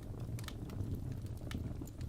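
Fireplace fire crackling: irregular sharp snaps, a few in two seconds, over a steady low rumble of the flames.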